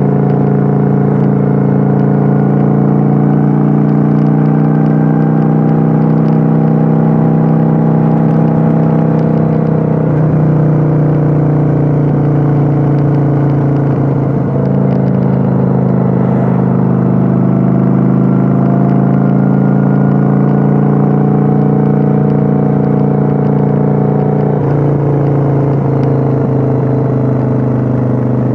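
Kawasaki Vulcan 900's V-twin engine running loud and steady while cruising, recorded on board. Its pitch dips and climbs again a few times as the throttle changes.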